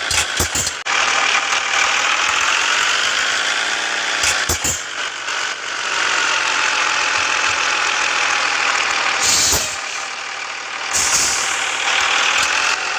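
Scania S 450 truck on the road, its engine running with a note that slowly rises and falls, plus a few short knocks and rattles.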